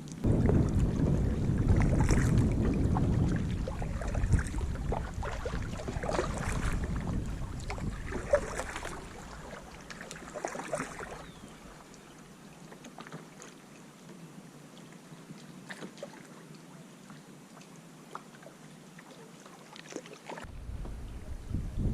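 Kayak paddle strokes dipping and splashing in the water about every two seconds, with wind rumbling on the microphone through the first half.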